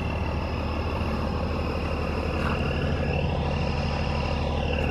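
Heavy diesel truck engine running steadily with a low, even hum.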